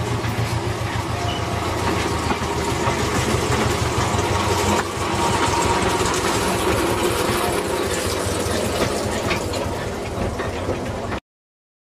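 Narrow gauge train running, a small engine's steady low drone under the clatter of wheels on the track. Cuts off suddenly near the end.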